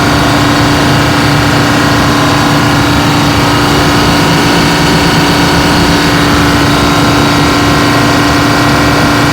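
Detroit Diesel generator engine running steadily at constant speed, with a strong steady hum over the engine noise.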